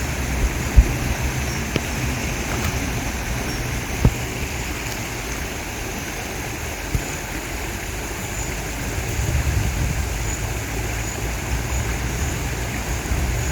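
River water running steadily, with a fluttering low rumble and a few sharp knocks, the loudest about a second in.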